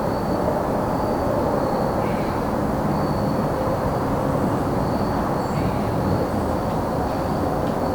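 Crickets trilling on one steady high note over a loud, even low rumble of distant traffic, with a few faint bird calls.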